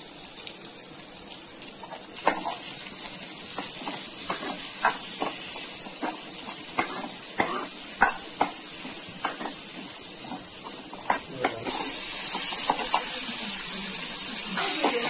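Shallots, tomatoes, garlic and fennel seeds sizzling in hot groundnut oil in a kadai, with a steel ladle clicking and scraping against the pan as they are stirred. The sizzle grows louder near the end.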